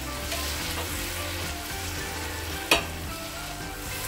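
Chicken pieces sizzling in a thick masala in a frying pan, being stirred in with a spatula; the masala has cooked down until the oil has separated. One sharp knock about two and a half seconds in.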